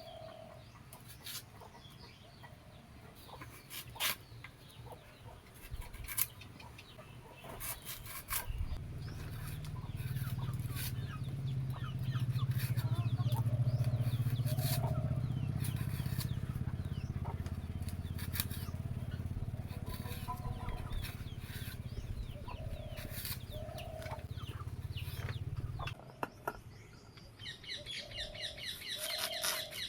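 Domestic hens clucking now and then, over scattered sharp clicks. A steady low hum comes in about a third of the way through, is the loudest sound, and stops suddenly near the end, where a burst of quick high chirps follows.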